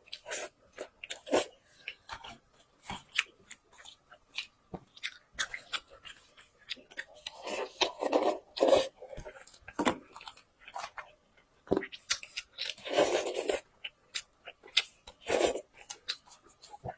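A person chewing and biting food close to the microphone, with irregular crunches and clicks and a few louder bursts of chewing about eight and thirteen seconds in.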